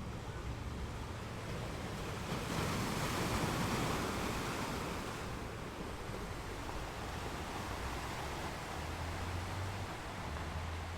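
Ocean waves breaking on a rocky beach: steady surf wash with one wave building and crashing about two to five seconds in, then draining back. A low rumble of wind on the microphone lies underneath.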